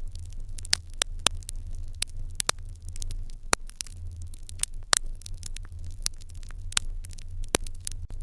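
Fire in a Japanese irori hearth crackling, with irregular sharp pops of varying loudness, several a second, over a steady low rumble.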